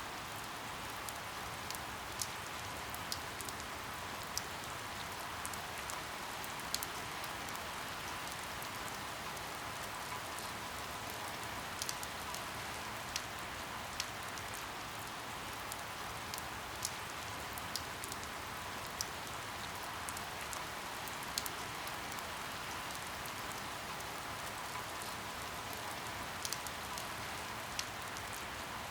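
Steady rain hissing, with sharper single drops tapping irregularly about once a second.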